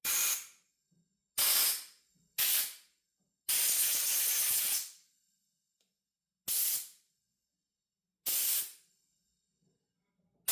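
Compressed-air blow gun blowing out ultrasonically cleaned carburetor parts in short blasts of hiss: six blasts, each starting abruptly, the fourth held for about a second and a half.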